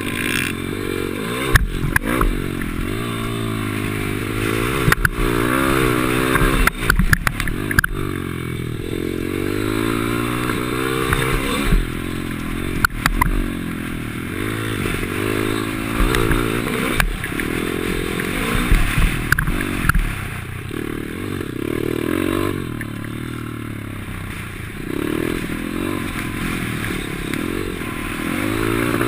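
Small single-cylinder pit bike engine ridden hard round a dirt track, revving up and dropping off again and again as it accelerates and slows for corners. Sharp knocks and rattles are scattered throughout as the bike hits bumps.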